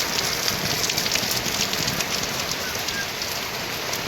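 Heavy monsoon rain falling steadily, a dense patter of drops.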